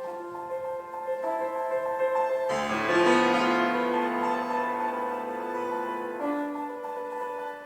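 Solo piano playing a slow, lyrical melody. About two and a half seconds in, a full chord with deep bass notes comes in and rings, fading away over the next few seconds.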